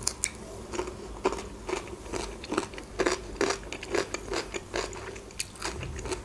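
Close-miked mouth chewing sweetcorn kernels: a series of short crunching clicks at an irregular pace, about one or two a second.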